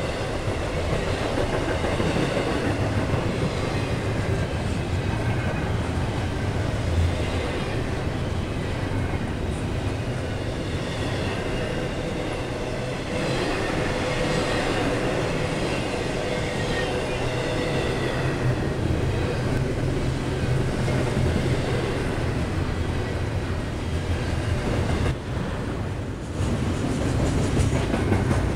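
Norfolk Southern double-stack intermodal train's loaded well cars rolling past: a steady rumble and clatter of steel wheels on the rails.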